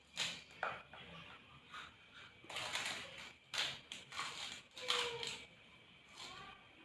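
Close-up eating sounds of people slurping and chewing instant noodles: a run of irregular wet slurps, the loudest clustered in the middle.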